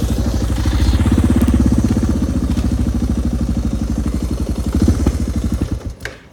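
Suzuki DR650's single-cylinder four-stroke engine running with an even, rapid beat, then dropping away near the end.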